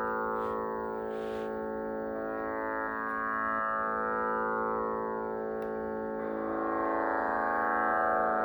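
Radel "Magic Plus" digital tanpura playing its continuous drone, the sampled strings sounding in a slow repeating cycle so that the rich overtones swell and fade about every three seconds.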